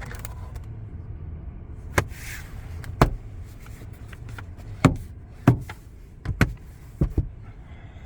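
About eight sharp clicks and knocks inside a 2022 Toyota Tundra's cabin: storage compartment lids and latches being opened and shut. Under them runs a steady low hum of the truck switched on.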